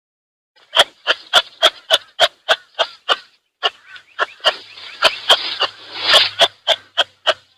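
An animal calling in a rapid series of short, sharp calls, about three or four a second, with a brief pause partway through.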